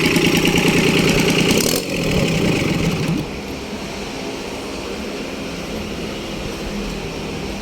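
Kubota B1500 compact tractor's diesel engine running with a fast pulsing beat, dropping in level about two seconds in and again about three seconds in, then running on quieter and steady.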